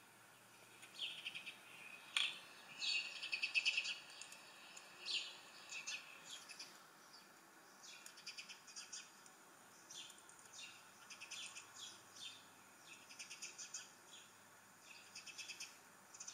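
Small birds chirping and trilling in quick, repeated bursts, faint and thin, from the outdoor squirrel video playing through a laptop's speakers.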